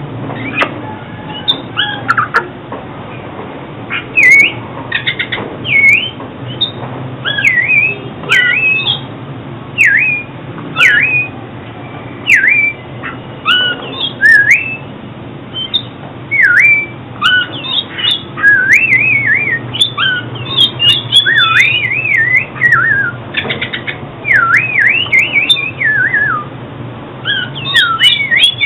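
Oriental magpie-robin singing: a near-continuous run of loud, clear whistled phrases that sweep up and down in pitch, with short pauses between them, over a faint steady low hum.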